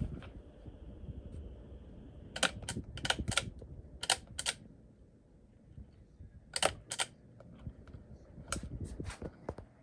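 Sharp clicks in small groups of two to four, spread through the stretch, over a faint low rumble.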